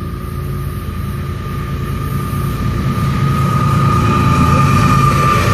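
Approaching train, growing steadily louder: a low rumble with a steady whine over it.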